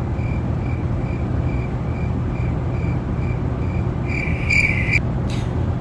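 Steady road and engine rumble inside a moving car's cabin. Over it a faint high-pitched beep repeats about two to three times a second, then holds as a louder steady tone for about a second near the end.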